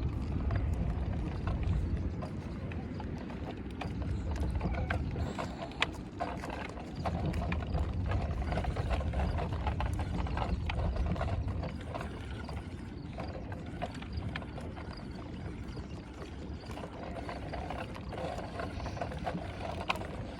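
A bicycle's rear freewheel ticking as the bike coasts, over a low rumble that is heavier in the first half.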